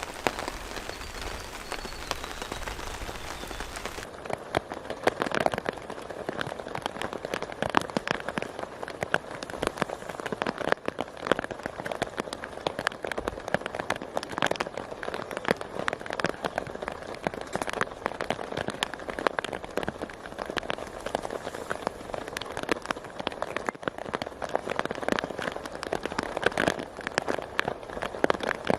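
Steady rain. About four seconds in, the sound changes from an even hiss to a dense patter of close, sharp drop hits on a surface.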